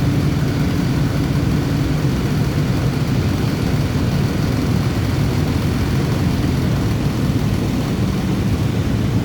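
Bus engine running steadily, a constant low drone with a hiss above it, heard from inside the bus.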